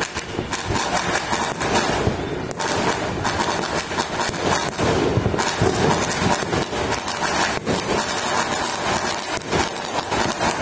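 Many distant fireworks and firecrackers going off at once, a continuous dense din of pops and rumble with a few sharper bangs every two to three seconds.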